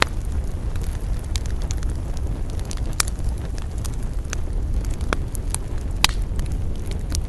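Campfire crackling with many small snaps and a few sharp pops, the loudest near the start, about three seconds in and about six seconds in, over a steady low rumble of wind.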